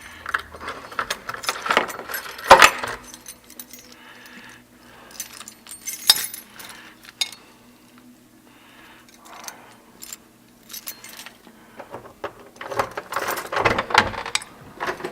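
Small metal objects jingling and clinking in several bursts of handling, with quieter gaps between.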